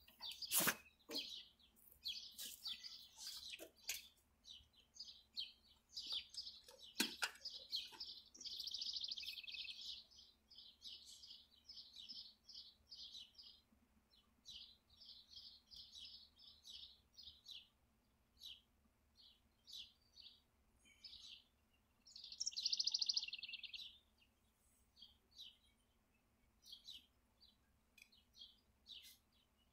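Birds chirping with many short high calls throughout and two longer buzzy trills, about nine and twenty-three seconds in. A few sharp clicks come near the start and about seven seconds in.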